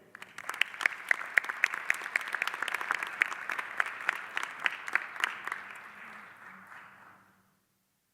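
Audience applauding after an award recipient is named, starting right away and fading out about seven seconds in, with a few loud individual claps standing out.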